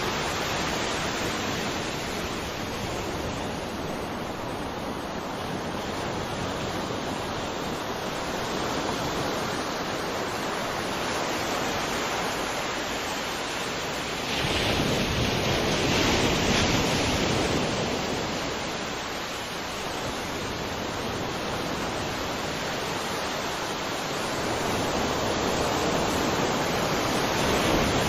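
Ocean surf: waves washing in and breaking in a continuous rush, swelling louder about halfway through and again near the end.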